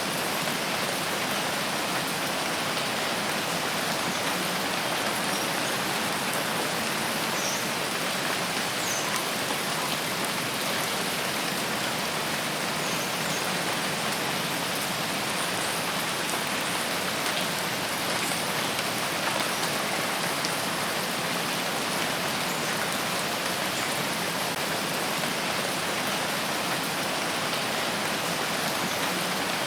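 Steady rain falling, an even, unbroken hiss with a few faint high ticks scattered through it.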